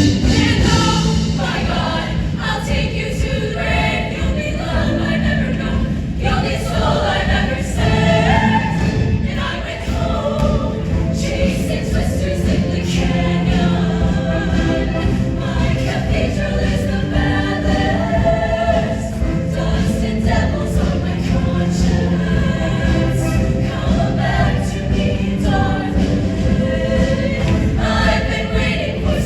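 A show choir singing in full voice over sustained low instrumental notes, without a break.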